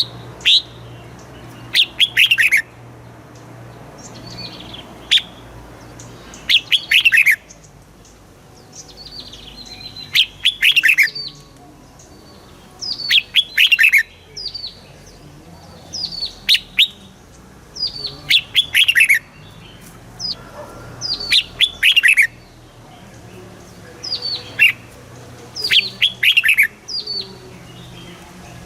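Red-whiskered bulbul singing: short, bright phrases of quick downward-sliding whistled notes, repeated about every two seconds.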